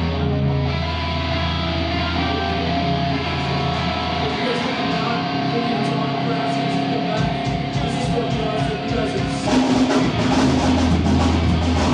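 Live band playing amplified music: held electric guitar notes over a bass line, then drums and the full band come in louder about nine and a half seconds in.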